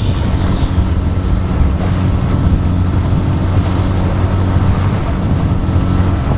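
Outboard motor of a small sailboat running steadily under way, a constant low hum, with wind buffeting the microphone and water rushing past the hull.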